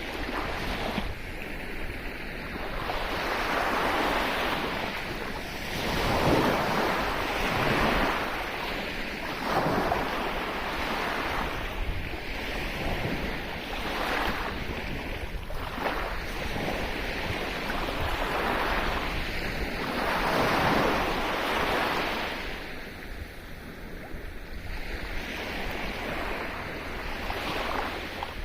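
Sea waves breaking and washing up the shore, swelling and ebbing every couple of seconds over a steady low rumble.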